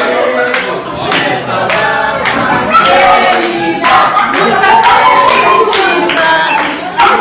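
Several people singing together, with hand claps running through the singing.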